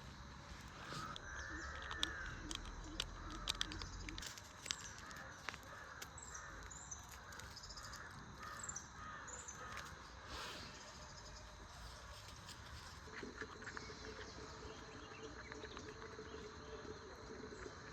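Outdoor birdsong: crows cawing several times, with smaller birds chirping. A steady low hum comes in about three-quarters of the way through.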